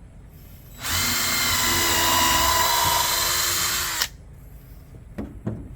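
Power drill drilling a hole in wood, running steadily for about three seconds at a constant pitch, then stopping abruptly. A couple of faint clicks follow near the end.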